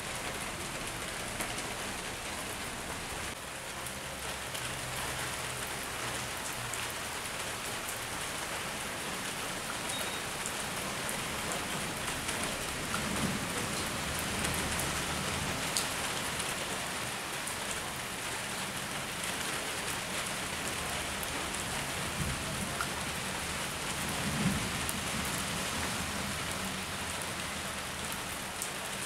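Steady rain falling on hard, wet ground: an even hiss with scattered sharper drip ticks.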